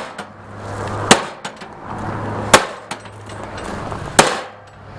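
Three hard hammer blows on the side of an MTD lawn tractor's body, about a second and a half apart, each a sharp crack. A low steady hum runs between the blows.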